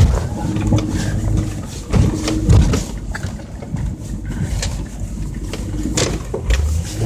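2002 Toyota 4Runner's engine running steadily as it drives off-road, with scattered knocks and bumps over rough ground.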